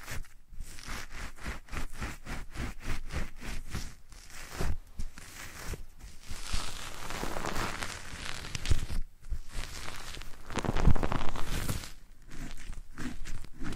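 ASMR triggers brushed and scratched against a 3Dio binaural microphone's ears: a quick run of rustling strokes, about four or five a second, then longer hissing rubs and scattered scratches.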